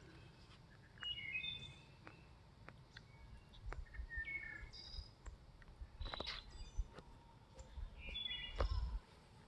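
Small birds chirping in short, scattered calls over a low rumble of wind or handling noise on the microphone, with a few light clicks; the rumble swells briefly near the end.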